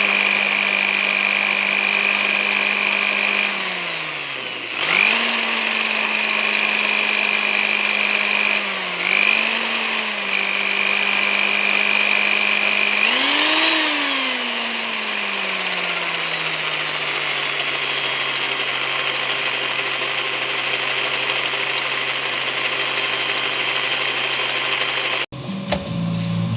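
A power tool's electric motor running at a steady high speed. It slows sharply about four seconds in and briefly again near nine seconds, speeds up near thirteen seconds, then winds down to a lower steady speed and cuts off suddenly near the end.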